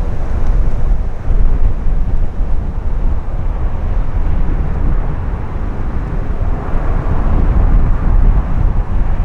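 Wind buffeting the microphone over the rumble of an Embraer E190 jet airliner's engines on landing approach, its roar swelling about two-thirds of the way through as it draws closer.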